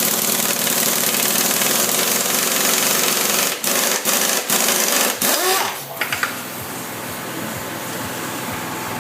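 Power tool rattling hard while undoing fasteners during an engine removal, released several times in quick succession and then stopped about six seconds in, winding down with a short whine.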